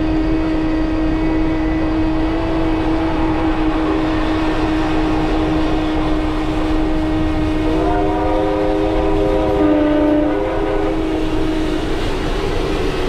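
Two trains running side by side on parallel tracks, a steady rumble with a held tone. About eight seconds in a chime whistle sounds a chord for about two and a half seconds.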